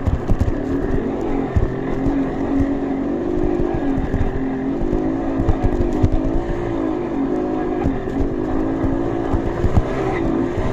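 Off-road trail motorcycle engine running, its revs rising and falling continually, over frequent short low knocks.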